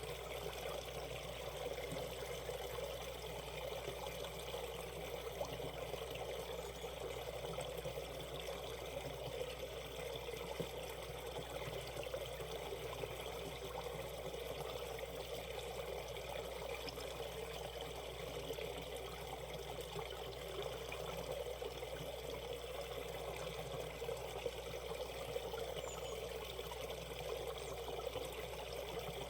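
Shallow mountain stream rushing and trickling over rocks in a steady, unbroken flow.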